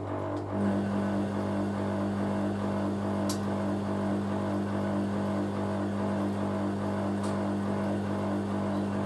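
Hoover A3060 Electronic 1100 washing machine draining: a steady electric hum from its drain pump, joined about half a second in by a louder, higher-pitched hum. Two faint ticks come a few seconds apart.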